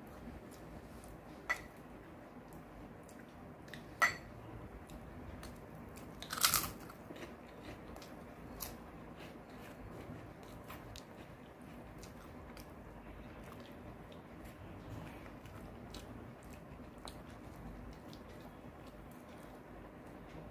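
A person chewing food, with faint mouth clicks throughout and a few sharp crunches at about 1.5, 4 and 8.5 seconds in. The loudest crunch comes about six and a half seconds in.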